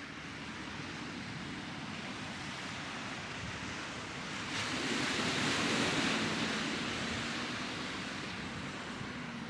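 Surf on a beach: a steady wash of waves, with one wave breaking about halfway through as a rushing hiss that swells suddenly and slowly fades.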